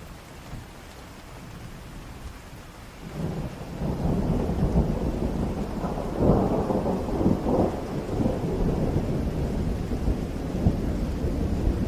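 Steady rain, then a long roll of thunder that builds about three seconds in and keeps rumbling, with crackling peaks in the middle.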